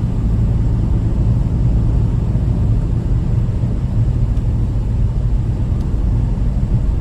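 Truck engine running with a steady low drone, unchanging throughout.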